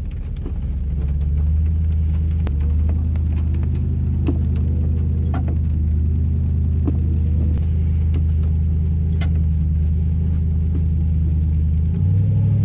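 Pickup truck engine running steadily under load while it pushes through a deep mud hole in two-wheel drive. Its pitch rises a little about a second in and steps up again near the end as it revs higher, with a few faint clicks and knocks.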